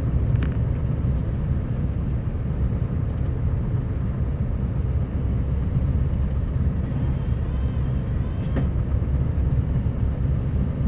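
Scania R560 truck's V8 diesel engine running steadily under load while plowing snow, a continuous low rumble.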